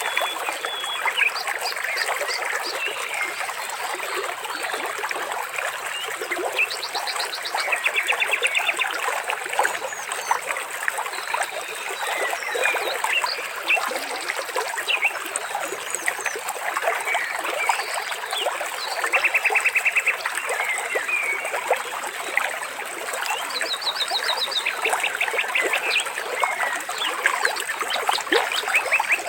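Steady trickling water with birds singing over it: scattered short chirps and several quick trills, each about a second long.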